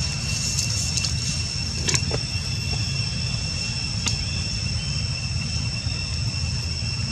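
Steady outdoor background noise: a constant low rumble under a steady high-pitched drone, with a sharp click about two seconds in.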